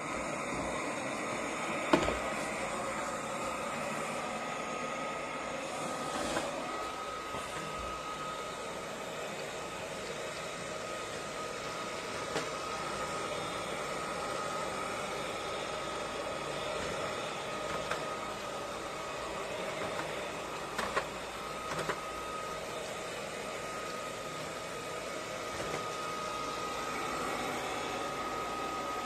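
eufy Omni C20 robot vacuum running: a steady motor and fan whir with a thin steady whine. A sharp knock comes about two seconds in, and a few lighter knocks come later, near the end of the second third.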